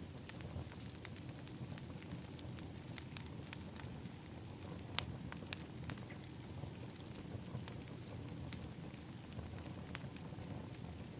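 Wood fire in an outdoor fire pit crackling, with frequent irregular pops, two sharper ones about halfway through, over a steady low background rush.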